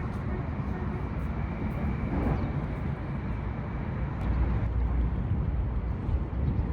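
Steady low rumbling background noise with no distinct event; the rumble grows louder a little past halfway.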